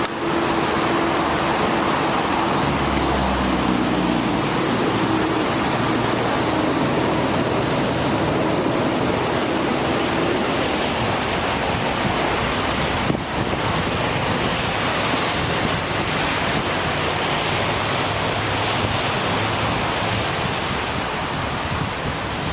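Steady rushing noise of wind on the microphone and tyres hissing on a wet road while cycling in the rain, with a low hum in the first few seconds.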